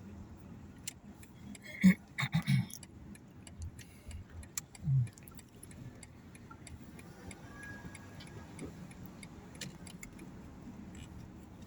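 Inside a moving car: a low steady road hum with scattered light ticks and clicks, a short cluster of knocks about two seconds in and a brief low thud about five seconds in.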